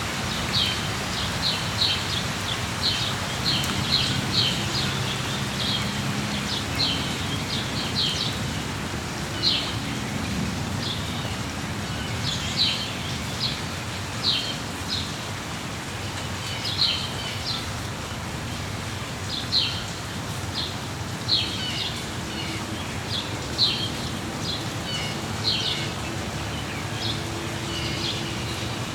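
Small songbirds chirping in short, high calls, roughly one every second, over the steady hiss of falling rain.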